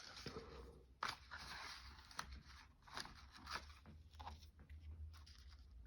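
Faint rustling of paper being handled, with a few light clicks and taps, the sharpest about a second in and again near two and three seconds.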